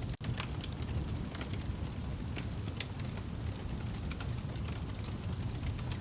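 Crackling fire with rain: a steady low rumble of rain under scattered sharp pops from the fire, the whole sound cutting out for an instant near the start.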